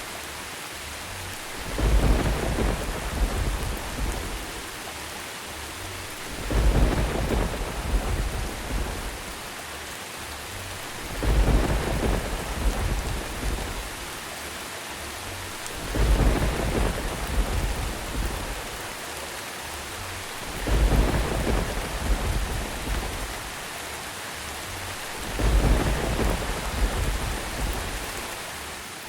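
Steady rain with low rumbles of thunder swelling up six times at evenly spaced intervals, about every four to five seconds, each fading out over a couple of seconds.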